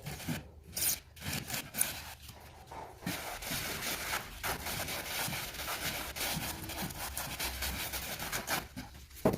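A tool scraping and rubbing over a cement mortar floor bed, in short strokes at first and then in a long run of steady scraping, with a single sharp knock near the end.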